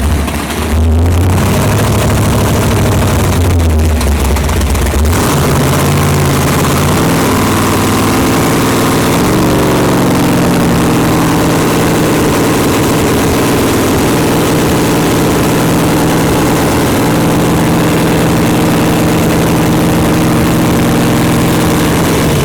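Big-block Ford V8 running loud, uneven and low at first, then brought up in two steps about seven and nine seconds in and held at a steady faster idle.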